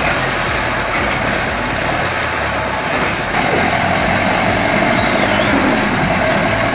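Heavy vehicle's diesel engine running steadily, getting louder from about three seconds in.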